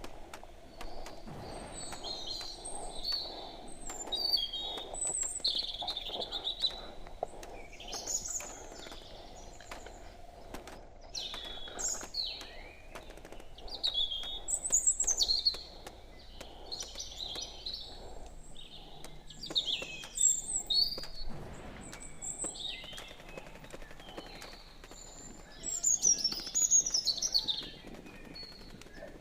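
Songbirds chirping and singing in short repeated phrases every second or two, with faint scattered clicks and rustling underneath.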